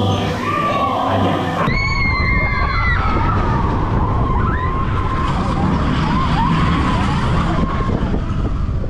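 Seven Dwarfs Mine Train roller coaster running. A heavy rumble with wind noise sets in suddenly about two seconds in, with a high squeal at first.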